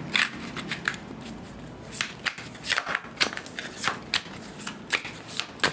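Tarot cards being shuffled by hand: an irregular run of quick card snaps and slides, a few per second.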